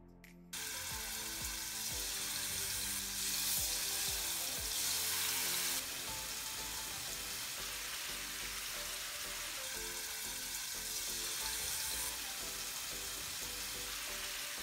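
Marinated chicken pieces sizzling in hot oil in a frying pan. The sizzle starts suddenly about half a second in as the chicken goes into the pan, is loudest for the next few seconds, then settles to a steady sizzle while the pieces are stirred. Background music plays underneath.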